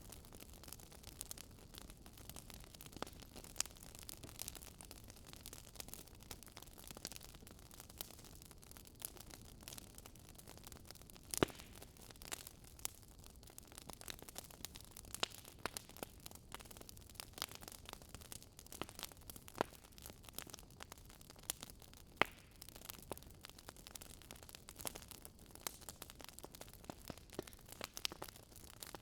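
Wood fire crackling in a fireplace: irregular sharp pops and snaps over a faint steady hiss, with the loudest pop about eleven seconds in.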